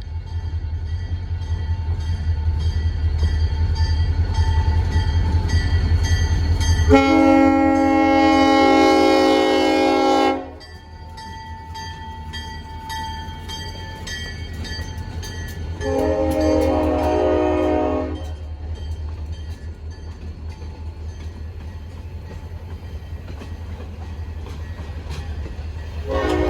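EMD SD40 diesel locomotive running, its engine rumble building as it approaches, and sounding its Nathan K5LLA five-chime air horn: a long chord-like blast about seven seconds in, a shorter blast around sixteen seconds, and a third starting just at the end. Faint clicks of wheels over rail joints run underneath.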